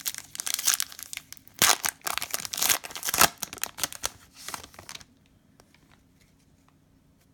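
Trading-card pack wrapper crinkling and tearing in irregular bursts as a pack is opened, stopping about five seconds in.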